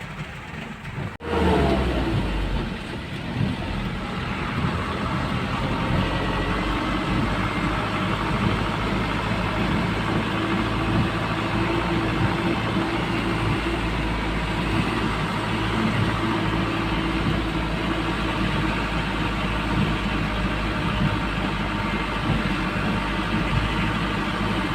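Car running, with a steady engine hum and road noise. It breaks off briefly about a second in, then goes on evenly.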